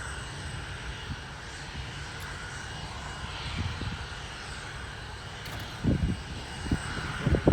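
Boeing 747-400F's jet engines running with a steady hum and rumble, with a few low thumps near the end.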